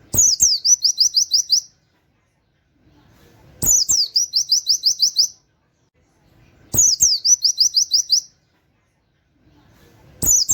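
Pleci (white-eye) singing its rapid 'nembak' song of canary-like 'wit wit' notes: a burst of about eight quick, high, sharply falling notes lasting about a second and a half. The phrase repeats three times, with a fourth starting at the very end, each about three and a half seconds apart and each opening with a low knock.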